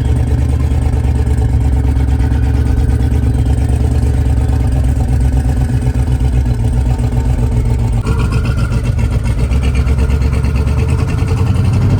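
Twin-turbo limousine's engine running steadily under way, a loud constant drone that shifts in tone about eight seconds in.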